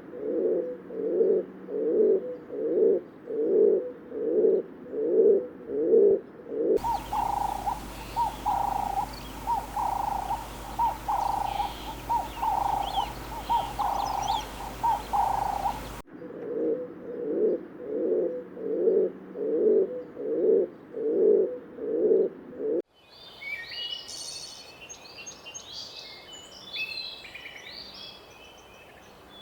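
Birds calling in a run of separate recordings. Low calls repeat about twice a second, then a higher-pitched series of calls, then the low calls again. Small birds chirp high and quick near the end.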